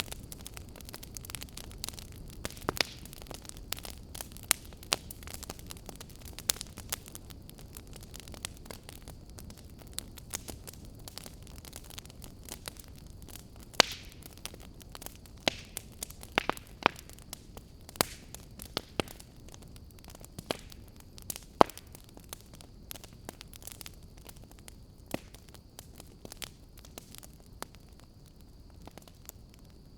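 Fire in a fireplace crackling: irregular sharp pops and snaps, some loud and some faint, over a soft low hiss of burning.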